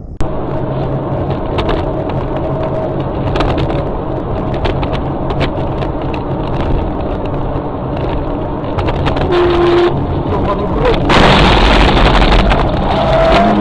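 Car engine and road noise recorded from inside a moving car by a dashcam, with scattered sharp clicks and a brief tone just after 9 s. A loud rushing noise sets in about 11 s in and lasts about a second and a half.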